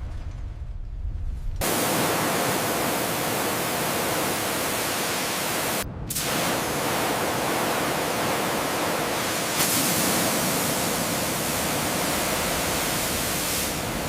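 Loud, steady hissing noise that follows a short low rumble. It cuts out for a moment about six seconds in and grows brighter near the end.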